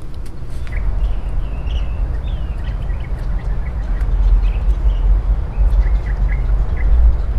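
Small birds chirping repeatedly in short calls over a steady low rumble.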